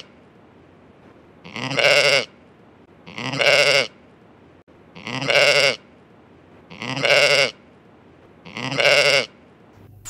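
Sheep bleating: five wavering bleats of about a second each, all alike and evenly spaced every second and a half or so.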